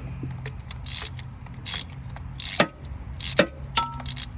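A hand ratchet being worked in short strokes: about five brief bursts of clicking, less than a second apart, over a steady low hum.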